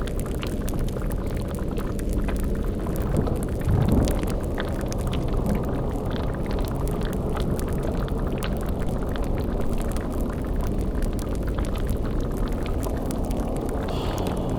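Dark sound-designed ambience: a steady low rumble under a bubbling layer of boiling-cauldron liquid, with a brief swell about four seconds in.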